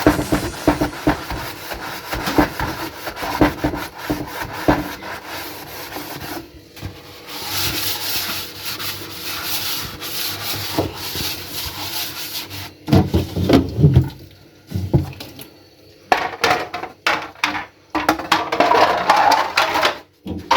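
Kitchen cloth rubbing and scrubbing on refrigerator shelves, with scattered clicks and a few louder knocks and clatters in the second half.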